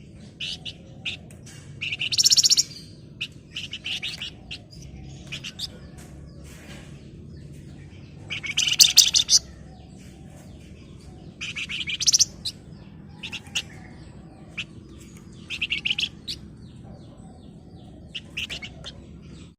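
Flamboyan songbird singing: short, dense rattling trills (ngebren) about two to four seconds apart, the loudest near the middle, with scattered short, sharp chirps between them, over a faint low hum.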